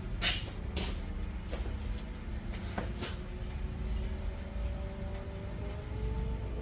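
A few short hissing squirts from a handheld spray bottle, over a low steady rumble.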